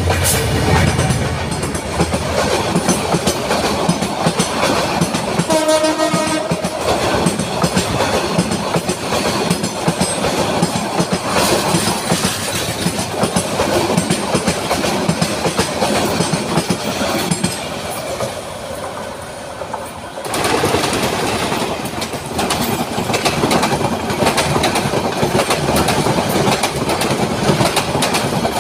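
Train running on rails, a steady rumble with wheels clattering over the track. A train horn sounds once, briefly, about six seconds in, and the rumble changes abruptly about twenty seconds in.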